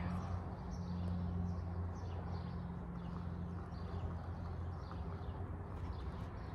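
Birds chirping in short, repeated calls over a steady low hum.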